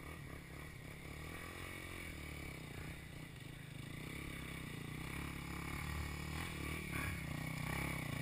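Vehicle engine running steadily, growing gradually louder, with faint clatter and scraping.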